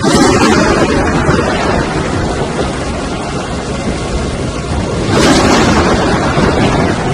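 Strong wind buffeting the microphone, loud and rushing, with gusts surging at the start and again about five seconds in.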